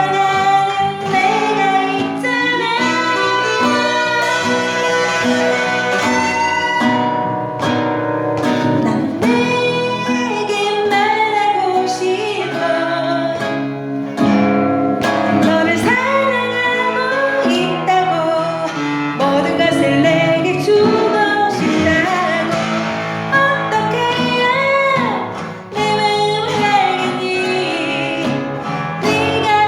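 A woman singing a Korean pop ballad in her natural, unamplified voice, accompanied by a strummed and plucked guitar.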